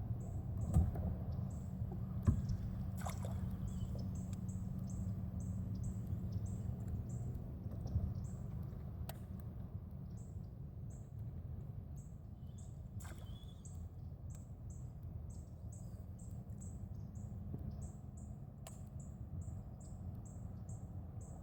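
Short, high chirps repeated evenly two or three times a second, typical of a calling insect or small animal, over a low steady rumble, with a few sharp clicks scattered through.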